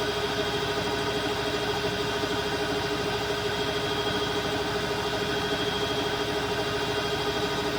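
Bosch Aqua Star washing machine running steadily, a constant motor hum and whine with no change in pitch or level.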